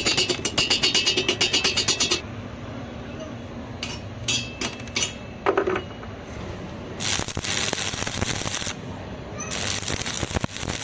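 Stick-welding arc crackling and hissing in two short runs, after a rhythmic pulsing buzz that stops about two seconds in.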